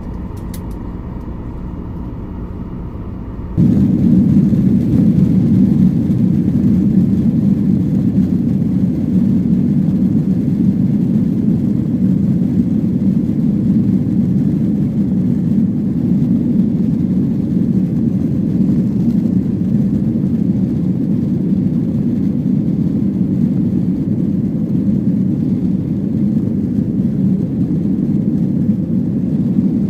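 Airliner cabin noise: a steady low rumble of engines and airflow. About three and a half seconds in it jumps abruptly to a much louder, even rumble, which then holds steady.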